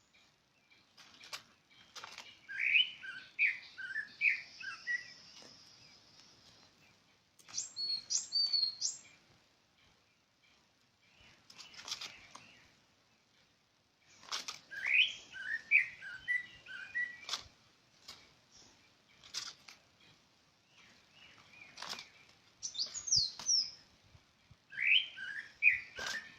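A bird singing short phrases of quick chirping notes, repeated every several seconds, with briefer higher-pitched notes in between and scattered sharp clicks.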